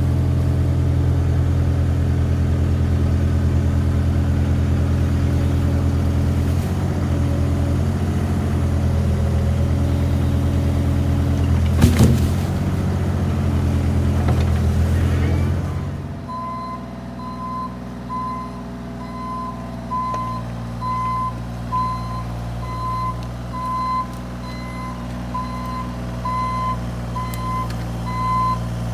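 Diesel engine of a Bobcat E32 mini excavator running steadily, with one sharp knock about halfway through. About two-thirds of the way in the engine drops to a quieter, lower note and a reversing alarm starts beeping about once a second.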